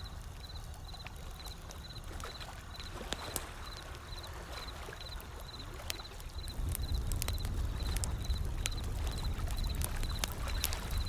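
Wood fire crackling with sharp irregular pops over the low wash of ocean waves, which swells louder about two-thirds of the way through. A faint high chirp repeats about twice a second.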